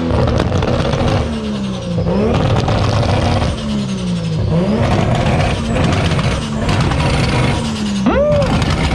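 Turbocharged Nissan 200SX engine being revved hard in a rev battle. Its pitch jumps up and then sinks away, over and over every couple of seconds, and a quick sharp blip comes near the end.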